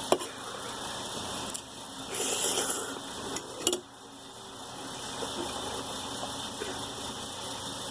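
Eating ramen noodles: chewing and a short slurp a little past two seconds in, with sharp clicks of a utensil against the bowl near the start and just before four seconds.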